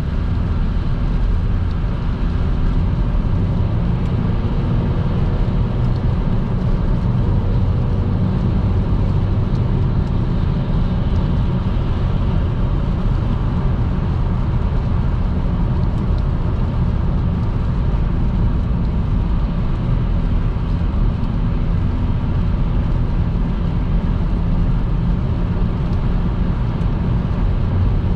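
Car driving at motorway speed on a rain-wet road: a steady low rumble of engine and tyre noise with a hiss above it.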